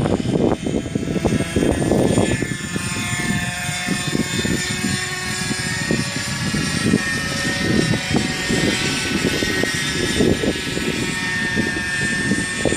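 Vario Benzin Trainer RC helicopter's 23cc Zenoah two-stroke petrol engine running with its rotor noise, the pitch gliding up and down as it works. Strong wind buffets the microphone in uneven low rumbling gusts.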